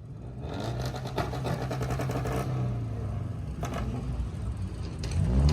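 Car engine running at the meet, then revved harder about five seconds in: its pitch rises and it grows louder as the car accelerates away in a hard launch.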